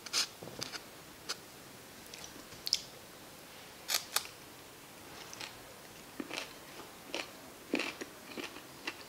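A person biting into and chewing a piece of kimbap, heard as irregular small mouth clicks and crackles, with two sharp clicks close together about four seconds in.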